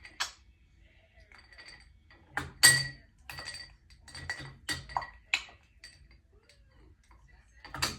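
A run of sharp clinks with a ringing tone, about a dozen in a few seconds, the loudest about three seconds in.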